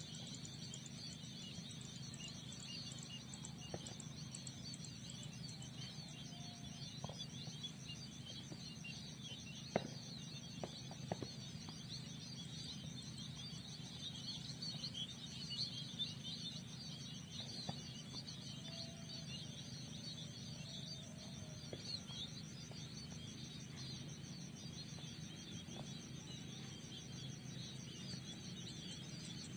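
Many small birds chirping continuously over a steady, pulsing insect trill, with a low steady hum underneath. A few soft clicks come about a third of the way in.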